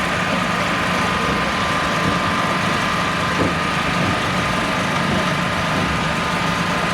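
A heavy engine idling steadily, with a constant low hum and a steady high whine over it.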